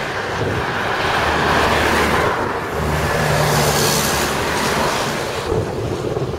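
Empty scrap box wagons of a freight train rumbling over the rails as they pass, a loud steady rolling noise that swells through the middle, with strong wind buffeting the microphone.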